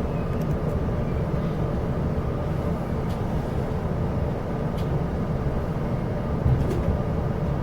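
Steady low rumble of a Chu-Kuang express passenger train running along the line, heard from inside the carriage, with a few faint clicks.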